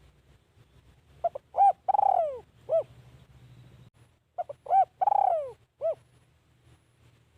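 Spotted dove cooing: two phrases, each a few short clipped coos, a long falling coo, then one short closing note. This is the trained decoy bird's luring call.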